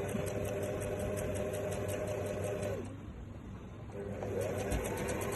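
Electric sewing machine running at stitching speed with a fast, even ticking. It slows and stops a little under three seconds in, then starts again about a second later, its pitch rising as it comes back up to speed.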